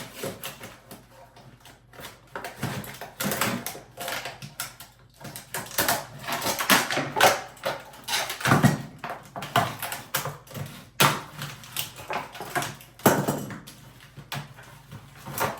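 Irregular clicks, taps and rattles of packaging being cut open and handled by hand, with a few louder knocks among them.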